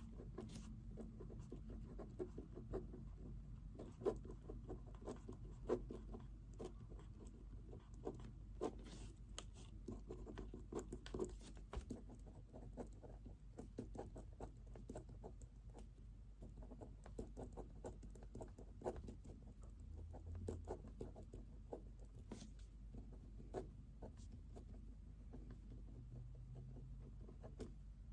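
Pen writing on paper: quiet, irregular scratching and tapping strokes over a faint steady room hum.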